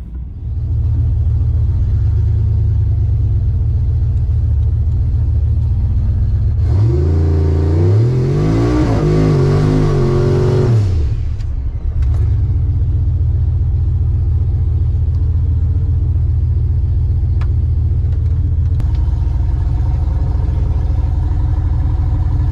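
Boosted V8 race truck engine rumbling at a loud, lumpy idle, then revving hard for about four seconds with the pitch climbing and dropping several times, then settling back to the rumble.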